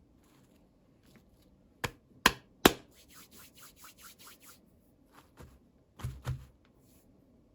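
Small plastic toys and packaging handled by hand: three sharp clicks, then a quick run of light taps at about three a second, then two duller knocks.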